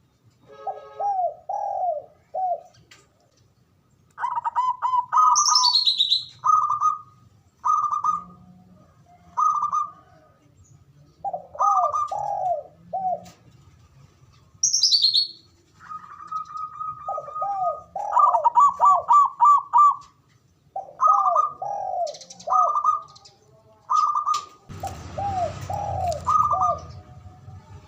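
Several zebra doves (perkutut) singing their full cooing song (manggung): phrases of quick arched coo notes followed by ringing notes, repeated over and over, sometimes overlapping. Twice a short high falling chirp cuts in, and near the end a noisy rustle lies under the coos.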